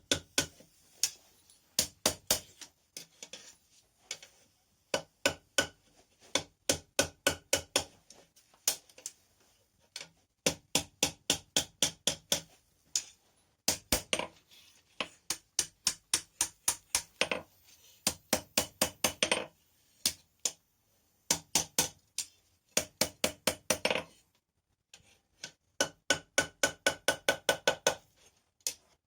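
Blacksmith's hand hammer striking rebar on an anvil in runs of quick blows, about three or four a second, each blow ringing. There are short pauses between runs and a longer one near the end.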